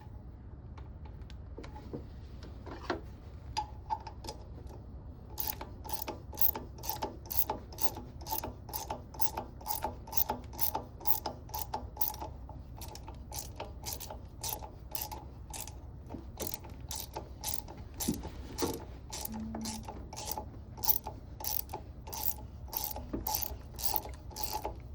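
Ratchet wrench clicking in steady back-strokes, about two clicks a second from roughly five seconds in, as it turns the impeller puller's forcing screw to draw a stuck rubber impeller out of a marine seawater pump.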